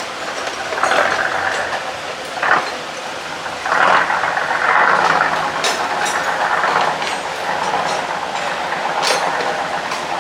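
A dive boat's engine running, mixed with swelling water noise and a few sharp knocks.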